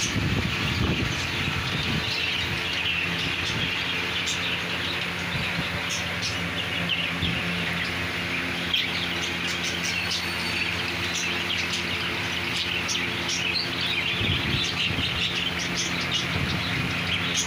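A dense chorus of many small birds chirping at once, as from a crowd of caged birds at a bird market, over a steady low hum.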